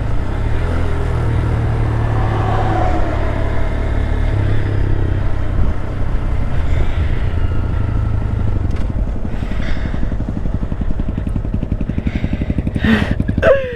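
Honda Grom's single-cylinder engine running while riding, with wind rumble on the microphone. Near the end a short sound falls in pitch and the engine settles into an even, rapid pulsing.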